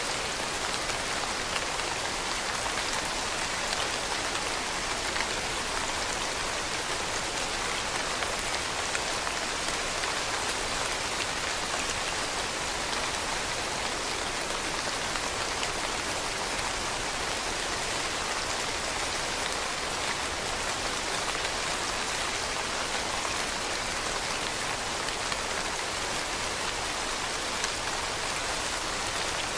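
Steady rain falling on leaves, a dense even patter of drops with no let-up.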